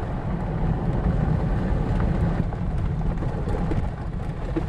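Vehicle driving: a steady low rumble of engine and tyres, with scattered light ticks, easing slightly near the end.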